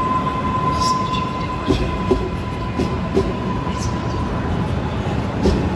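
Electric train running slowly along the platform: a steady rumble with wheels clicking and knocking irregularly over rail joints and points. A steady high tone fades away about four seconds in.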